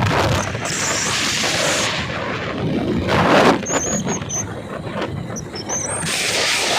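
Rushing wind and vehicle noise on a moving bike, with a few brief high chirps or squeals between about three and six seconds in.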